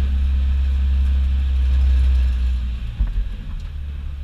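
Car engine heard from inside the cabin, a steady low drone that stops abruptly just under three seconds in, followed by a couple of knocks.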